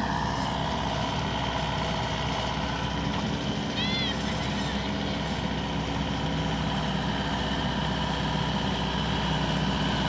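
Heavy farm machine engine running steadily at a constant speed, as a paddy harvesting machine works in mud. A short high chirp sounds once about four seconds in.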